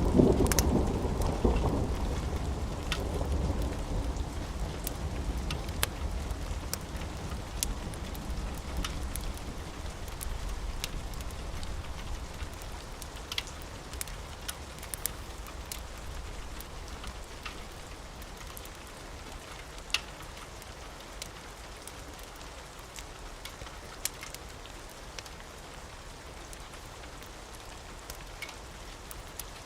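A roll of thunder starts loud and fades away over about ten seconds, over steady rain. Scattered sharp pops of a crackling wood fire come throughout.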